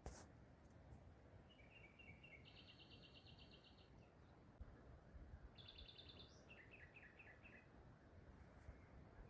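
Faint songbird singing over a quiet outdoor background: two short phrases of quick repeated notes, one starting about a second and a half in and the other about five and a half seconds in.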